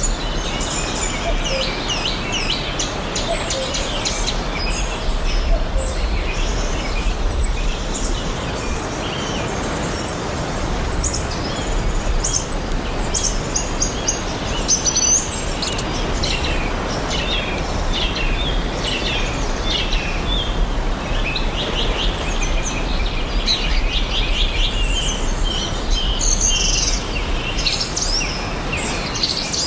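Several songbirds chirping and trilling throughout, over a steady background hiss and a low rumble.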